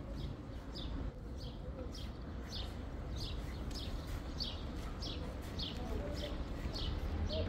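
A small bird chirping over and over, short high chirps about twice a second, over a steady low background rumble.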